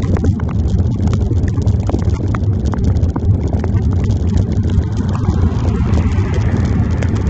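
Wind and road noise rumbling on a handlebar-mounted phone's microphone while riding a bicycle in the rain, with scattered clicks and taps.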